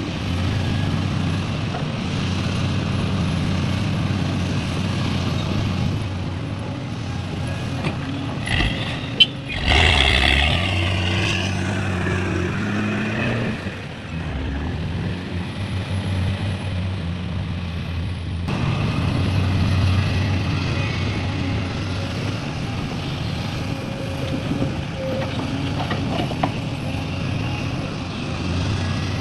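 Heavy diesel engines of an excavator and dump truck running steadily. About nine seconds in there is a sharp knock, followed by a few seconds of louder engine sound whose pitch climbs, before it settles back to the steady running.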